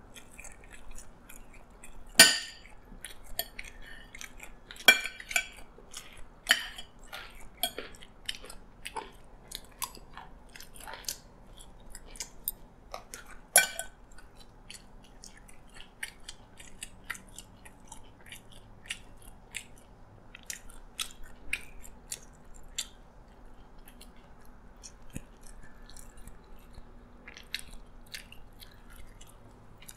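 Close-up eating sounds: chewing and crunching of fried chicken and rice, mixed with the clicks and scrapes of a fork and spoon working on a plate. A few louder, sharp clicks stand out about two, five and fourteen seconds in.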